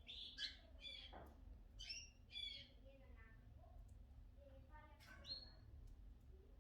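Cockatiel chirping: short, faint whistled calls in three bursts, at the start, about two seconds in and about five seconds in.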